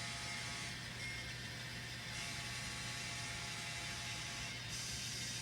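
N scale model train running along the layout track: a steady whir of the locomotive's motor and metal wheels rolling on the rails, over a low electrical hum.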